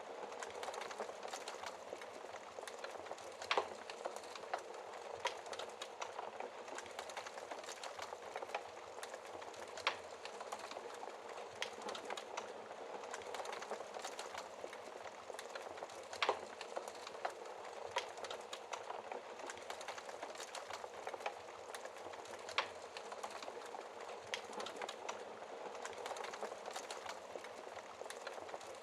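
Wood fire burning in a fireplace: a steady hiss of flames with irregular crackles and a few louder pops of the burning logs.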